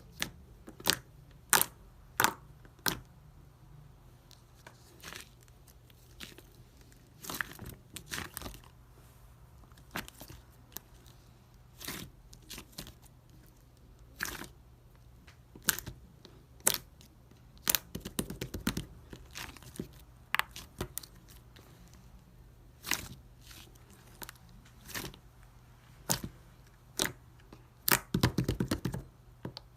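Blue ice slime being pressed and stretched by hand, giving sharp crackling pops at irregular intervals, with quicker runs of crackles around the middle and near the end.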